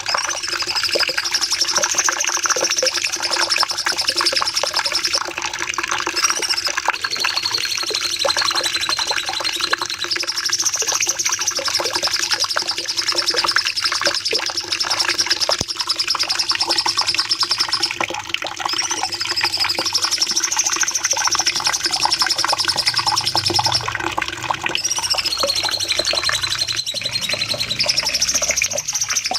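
Cucak cungkok songbird singing long, rapid trilled phrases, the high wavering and stepping song recurring about every nine seconds.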